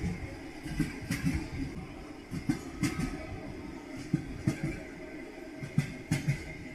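Train wheels clattering over rail joints in a steady rhythm: pairs of knocks about every second and a half over a continuous low rumble.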